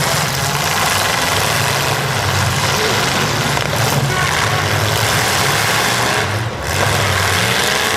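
Demolition derby cars' engines running, a loud steady rumble under a wash of noise, dipping briefly near the end.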